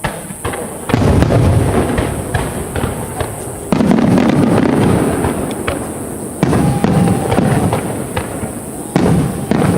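Aerial fireworks bursting in repeated salvos of booms and crackle. A fresh salvo sets in suddenly about every two and a half to three seconds, each one dying away slowly.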